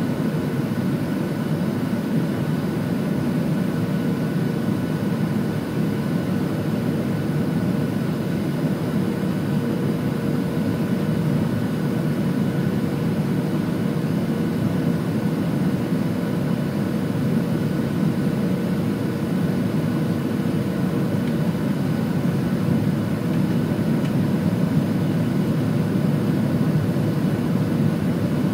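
Boeing 737-700 cabin noise from a window seat: a steady rush of airflow with the drone of the CFM56 engines and a few faint steady tones.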